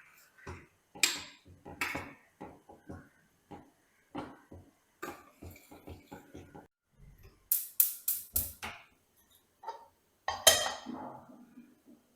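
Kitchenware being handled: irregular knocks and clinks of dishes and utensils, with a quick run of sharp clinks about two-thirds through and a louder clatter soon after.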